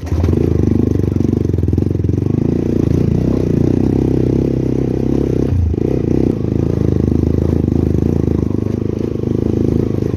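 Motorcycle engine running steadily in low gear, loud and close, with a steady pulsing rumble as the bike descends a rough gravel road.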